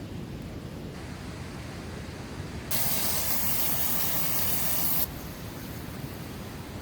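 A loud steady hiss starts suddenly about three seconds in and cuts off sharply about two seconds later, over a low steady rumble.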